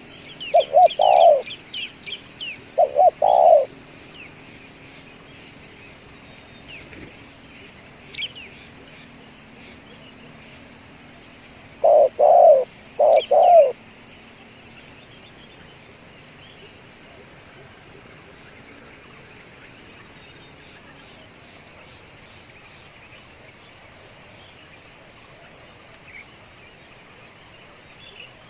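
Spotted dove (tekukur) cooing in short phrases of low notes: a pair of phrases in the first few seconds, then another phrase about twelve seconds in. Small birds chirp briefly between them, over a steady high insect drone.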